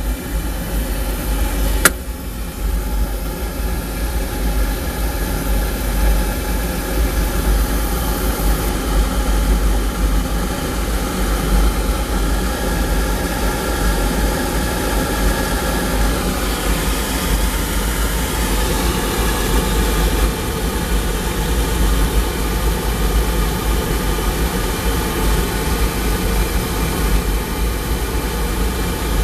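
Oil furnace burner running steadily: the gun-type burner's motor, blower and oil pump hum under the rushing noise of the flame. A single sharp click about two seconds in.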